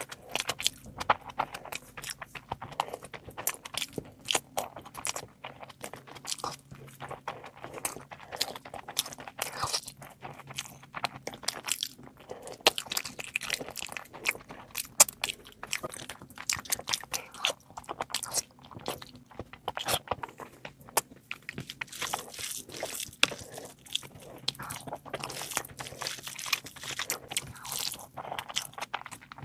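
A person eating: steady chewing and biting with an irregular run of sharp crunches and wet clicks.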